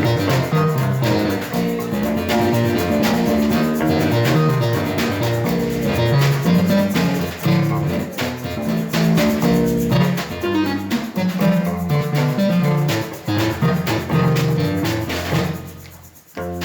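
Live band playing an instrumental passage: guitar over a moving bass line with drum kit, the playing dropping away briefly near the end.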